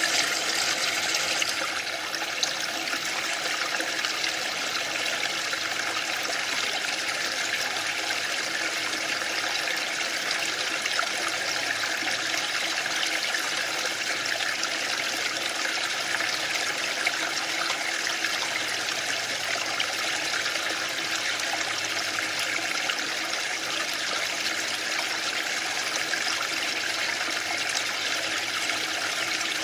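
Waterfall: falling water making a steady, even hiss with little low rumble.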